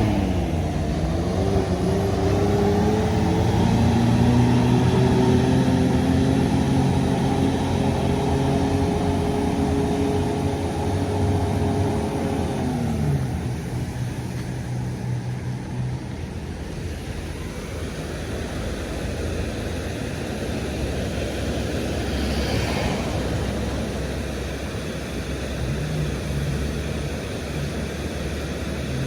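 Bus engine passing at steady revs: its pitch drops in the first second, holds for about twelve seconds, then slides down and fades, leaving a duller, even traffic rumble.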